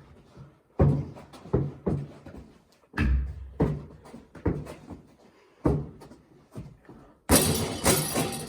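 A basketball bouncing on a hard indoor floor: separate thuds, irregularly spaced half a second to a second apart. Near the end comes a loud clattering crash lasting about a second.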